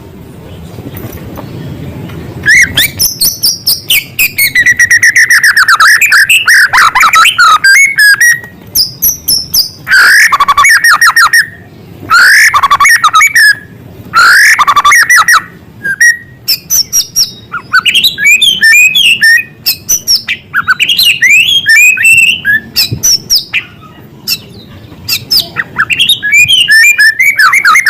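White-rumped shama singing loudly, its phrases packed with imitated small-bird calls. Song comes in repeated bursts of fast trills and sweeping whistles with short pauses between, starting a couple of seconds in.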